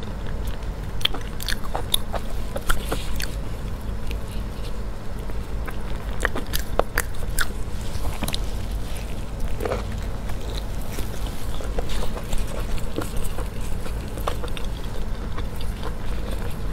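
Close-miked chewing and biting of chewy braised pig stomach and intestines: irregular wet mouth clicks and smacks over a steady low rumble.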